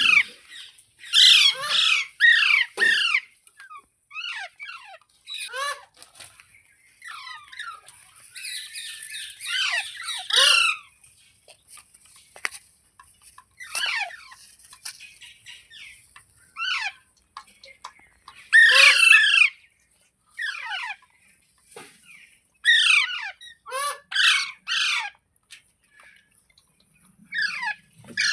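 Parrot squawking: short, harsh calls that fall in pitch, coming in bursts of several at a time with brief pauses between.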